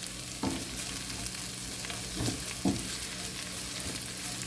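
Sliced sausage, onion and garlic sizzling in oil in a frying pan, with a steady hiss. The pan is being stirred, with a few short scrapes about half a second, two and a quarter and two and three-quarter seconds in.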